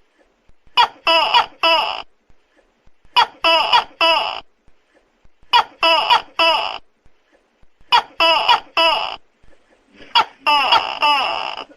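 Tokay gecko calling loudly, five calls at an even pace about every two and a half seconds. Each call is a sharp click followed by three quick, pitched 'to-kek' syllables.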